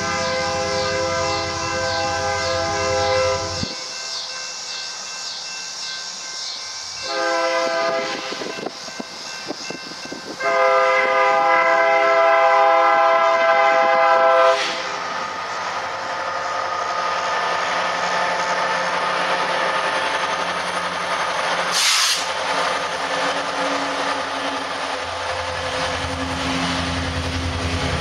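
Diesel locomotive air horn on an approaching BNSF coal train sounding three blasts, long, short, long. The locomotives and loaded coal hopper cars then rumble past on the rails, growing louder near the end, with a single sharp clank about three quarters of the way through.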